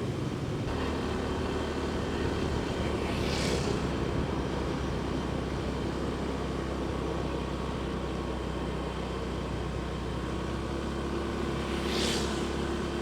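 Motorcycle engine running steadily while riding, with a brief hiss about three seconds in and again near the end.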